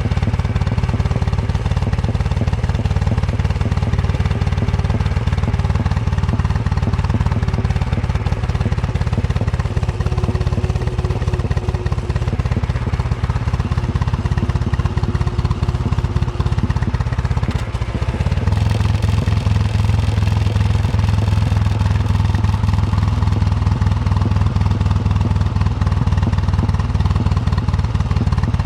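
Royal Enfield Bullet 350's single-cylinder engine running under way, a steady fast thump of firing pulses. About two-thirds of the way in it eases off for a moment, then pulls on with a steadier, stronger low note.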